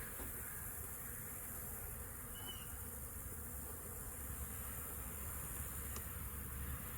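Steady hum of a honeybee colony buzzing around an opened hive that has just been smoked.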